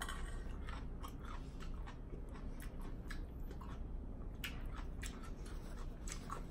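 Close-miked eating sounds: a mouthful of salad and meatloaf sandwich being chewed with many small wet clicks and lip smacks in an irregular stream, with finger licking a few seconds in.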